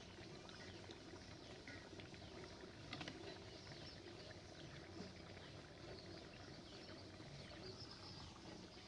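Near silence: faint steady background noise, with one soft knock about three seconds in.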